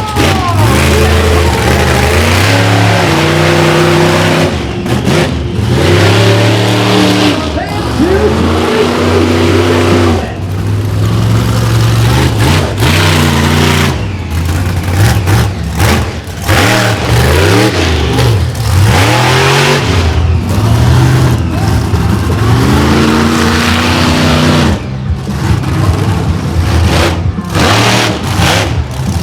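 Monster truck engine revving hard again and again, its pitch climbing and falling every second or two as the throttle is worked through a two-wheel skills run.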